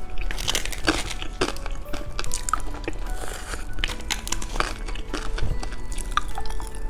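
Hard candy being bitten and crunched close to the microphone, with sharp, irregular crunches and chewing.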